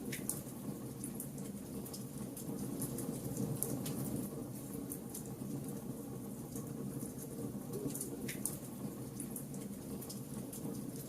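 Wood fire burning: a steady low rush of flames under constant small crackles, with two louder pops of the burning wood, one at the start and one about eight seconds in.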